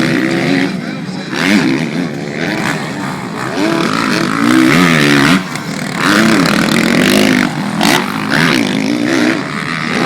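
Several motocross bikes' engines revving hard, their pitch repeatedly climbing and then dropping as the riders shift gears and roll off the throttle.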